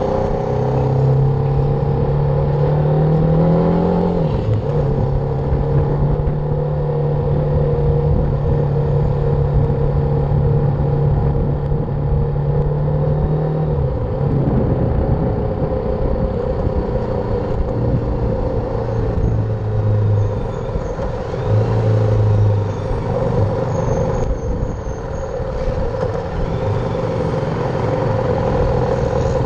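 BMW G310R's single-cylinder engine on the move: its note rises as it accelerates, drops at a gear change about four seconds in, then holds steady. Around fourteen seconds in it falls lower and comes and goes, as when slowing or idling, over a steady rush of wind and road noise.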